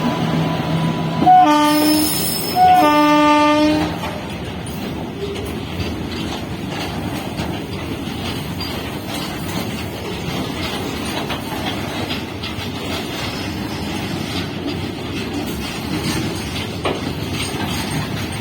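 Electric locomotive horn sounding two blasts about a second apart, each starting on a brief higher note. Then the steady rumble and clatter of a heavy freight train's loaded wagons rolling by.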